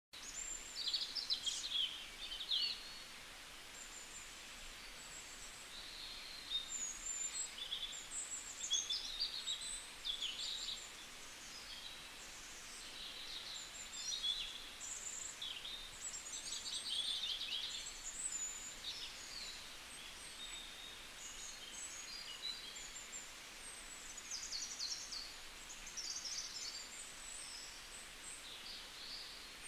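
Birds chirping and singing: many short calls, quick up-and-down glides and fast trills, overlapping throughout, over a faint steady hiss.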